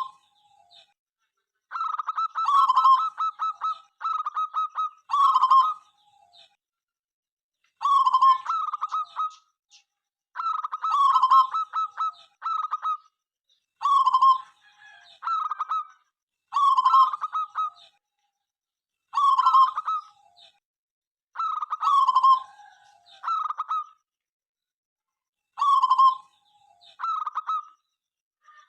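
Zebra dove (perkutut) cooing: phrases repeated every two to three seconds, each a quick stuttering run of notes and longer rolling coos, with short silences between.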